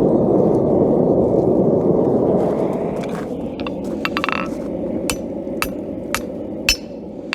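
Steady low rushing noise, easing a little partway through, with light metal clinks and taps in the second half of the forge work: one ringing clink of steel, then taps about every half second, before hammering on the anvil begins.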